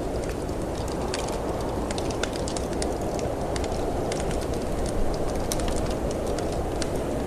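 Wood fire crackling in a fireplace, with many small irregular pops and snaps, over a steady low rush of snowstorm wind.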